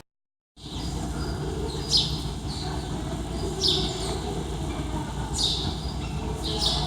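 Birds chirping, short high downward-sweeping calls repeated every second or so, over a steady low rumble of background noise. The sound cuts in after a half-second of silence at the start.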